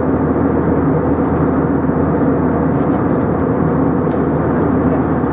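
Steady cabin noise inside an Airbus A320 airliner: engines and airflow making an even, loud rush with a steady low hum underneath.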